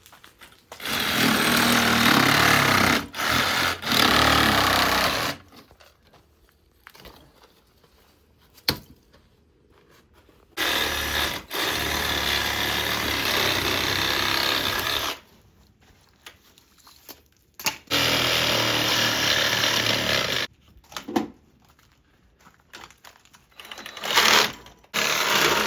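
A power tool run in four bursts of a few seconds each, with short knocks and quiet gaps in between.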